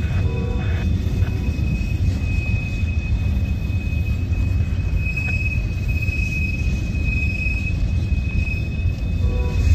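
Freight train boxcars rolling past: a steady low rumble of steel wheels on the rails, with a thin, steady high-pitched wheel squeal and a few brief squeals about half a second in.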